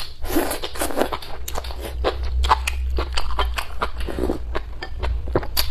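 Close-miked chewing of a mouthful of tender deer antler mushrooms from chicken soup, with many wet mouth clicks and smacks coming several times a second.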